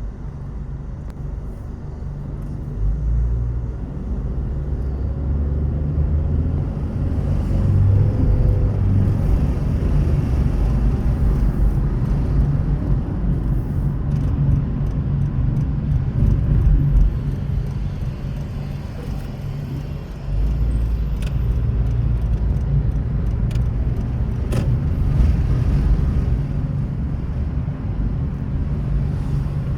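Car driving on city roads: a steady low engine and tyre rumble that swells and eases with speed, dipping just before the middle and picking up again sharply.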